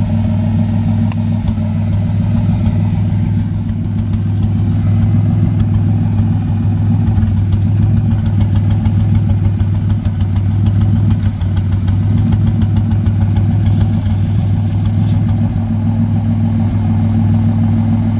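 Twin-turbocharged V6 engine of a New Edge Ford Mustang idling steadily, with no revving.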